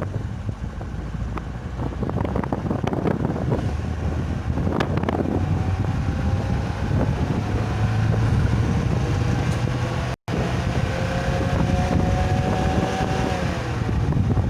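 A vehicle on the move: steady low engine and road rumble with wind buffeting the microphone, and a whine that rises slowly in pitch through the second half before dropping near the end.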